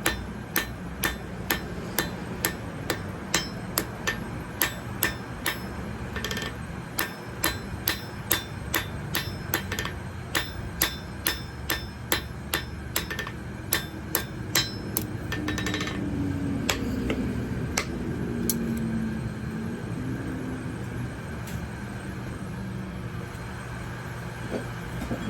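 Blacksmith's hammer striking on an anvil in a steady rhythm, about two blows a second, stopping about fifteen seconds in and followed by a few single strikes, over a steady low hum.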